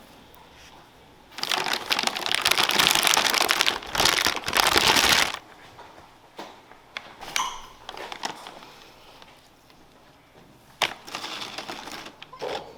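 Loud crinkling and rustling, as of paper or plastic packaging being handled, for about four seconds. This is followed by scattered small clicks and taps.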